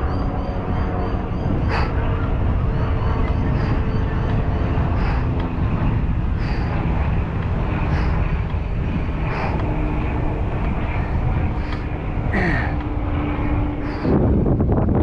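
Wind rushing over the microphone of a moving bicycle, with road-vehicle noise running under it. A short click comes about every one and a half seconds, and a louder surge of noise comes near the end.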